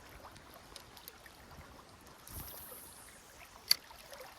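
Creek water running and trickling, with scattered faint clicks and one sharp click about three and a half seconds in.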